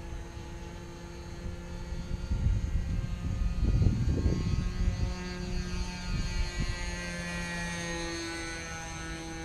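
Super Tigre .25 two-stroke glow engine of an RC model airplane running in flight, a steady buzzing drone whose pitch shifts and glides several times as the plane moves. A louder low rumble comes in about two to five seconds in.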